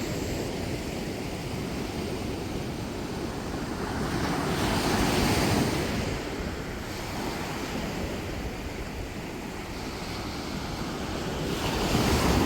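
Sea waves washing onto a beach: a steady surf that swells louder about five seconds in and again near the end as waves break.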